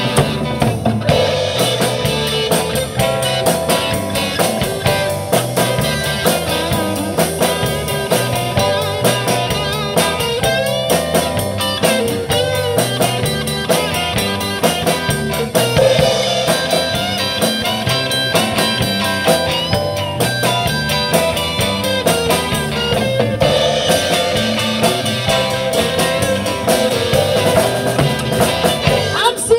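Live band playing an instrumental break in a 1950s rock-and-roll song, with electric guitar over bass and drum kit.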